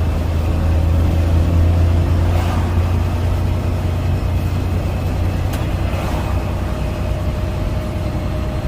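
Freightliner Cascadia semi truck's diesel engine running at a steady low drone while driving, heard inside the cab.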